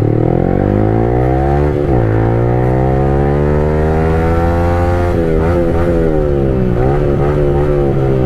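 Yamaha R15 V3's single-cylinder engine revved through a loud aftermarket exhaust. The revs rise, dip about two seconds in, then climb steadily until about five seconds in. After that they drop into several quick throttle blips.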